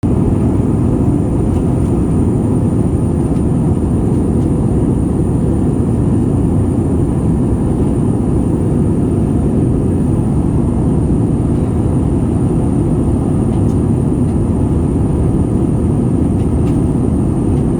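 Steady cabin noise of an airliner in flight: a constant low rush of engines and airflow heard from inside the cabin, with a faint high whine running through it.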